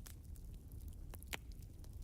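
Wood fire crackling: a handful of sharp pops and snaps over a low, steady rumble of the burning, with the loudest pop a little past halfway.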